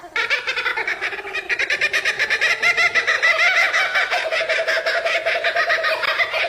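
Laughing kookaburra calling: a long, rapid run of repeated cackling notes that gets louder about two seconds in.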